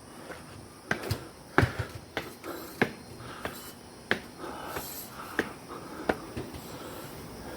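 A series of sharp, irregular knocks and taps, about one every half second to second, the loudest about one and a half seconds in.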